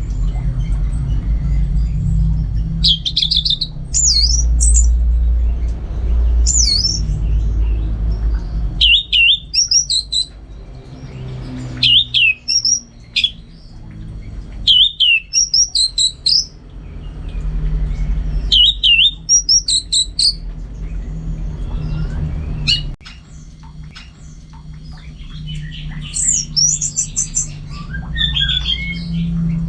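Orange-headed thrush singing: short, quick whistled phrases that sweep up and down in pitch, repeated every second or two, over a steady low rumble.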